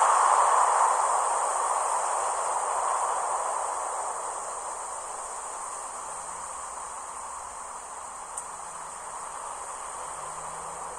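Ocean surf: the wash of a wave fades away over the first several seconds, under a steady high-pitched chirring of insects. A single small click about eight seconds in.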